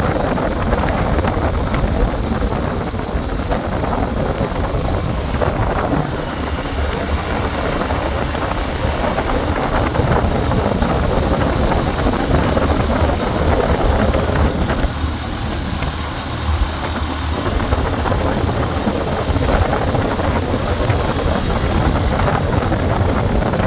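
Steady ride noise from a moving bike: wind rumbling on the microphone over a running engine, with no breaks.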